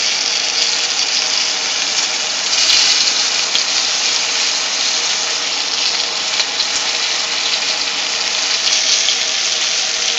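Flour-coated squirrel pieces frying in hot grease in a skillet: a steady sizzle with fine crackling.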